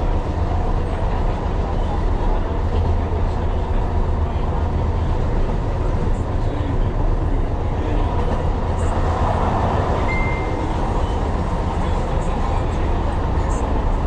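Tyne and Wear Metrocar running along the line: a steady, loud, low rumble of traction motors and wheels on rail, heard from inside the car.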